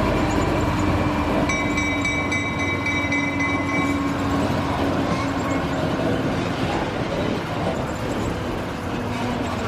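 Train running on rails, with a steady rumble throughout. A high steady tone sits on top of it from about one and a half seconds in until about four seconds in.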